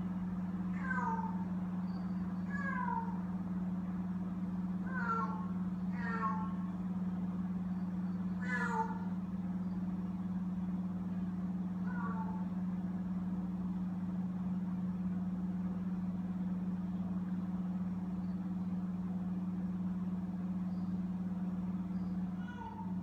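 Frightened feral kittens meowing: about six short meows, each falling in pitch, in the first half, then a pause and one more near the end. A steady low hum runs underneath.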